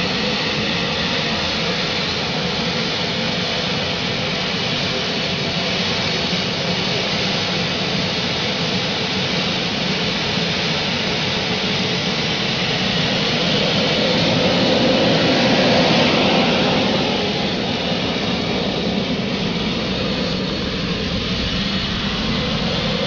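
Gas turbine of the MTT Turbine Superbike, a Rolls-Royce Allison helicopter turbine, running steadily; it grows louder about two-thirds of the way through, then eases back.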